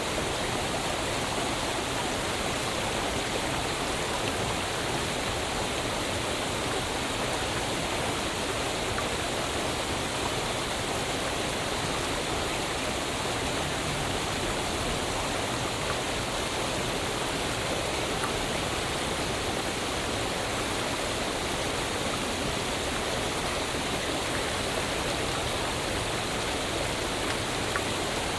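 Waterfall: a steady, dense rush of falling water, even and unbroken.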